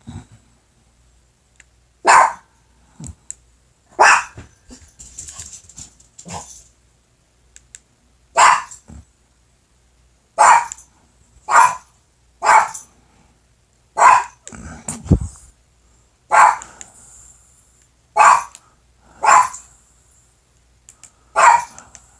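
Pet dog barking at the television in single loud barks, about a dozen of them, one every one to two seconds. A brief low rumble comes about two-thirds of the way through.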